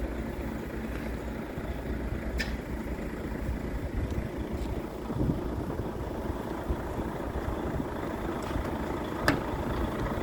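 Scania P truck's diesel engine running steadily with a low rumble, with two short sharp clicks, one about two seconds in and one near the end.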